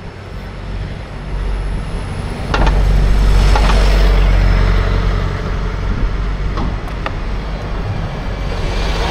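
Road traffic with a heavy engine running close by. The low rumble steps up sharply about two and a half seconds in and stays loud, with a few sharp clicks.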